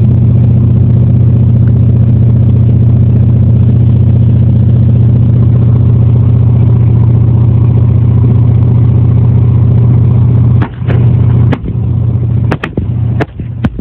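Subwoofer playing a deep, steady bass tone very loudly, overloading the recording. About eleven seconds in it breaks into choppy, hitting bass.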